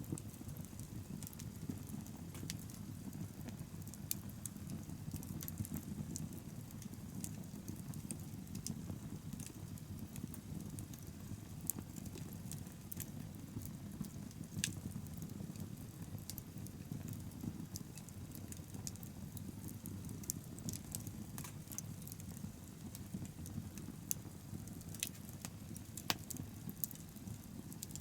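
Wood bonfire burning: a steady low rush of flame with many scattered sharp crackles and pops from the burning wood.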